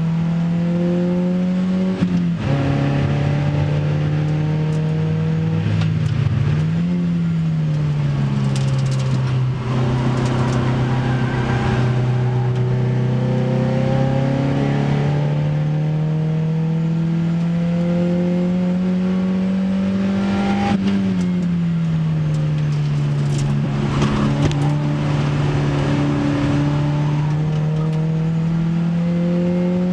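Opel Speedster's 2.2-litre, 147 hp four-cylinder engine pulling hard, heard from inside the cabin. Its pitch climbs slowly and drops sharply at gear changes about two seconds in and again about twenty-one seconds in, over steady wind and road noise.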